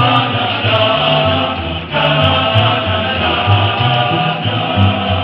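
Music: a group of voices singing together in chorus over a low bass line that steps from note to note.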